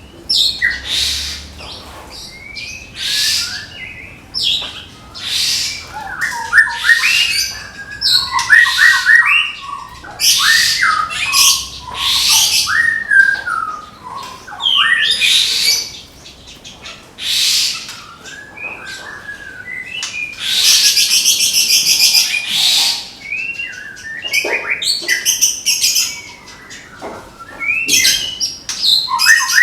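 White-rumped shama of the Medan strain singing: loud, sharp, high-pitched bursts of song, the 'tembakan' volleys, mixed with lower whistled sliding notes, and a long buzzy rattle about twenty-one seconds in.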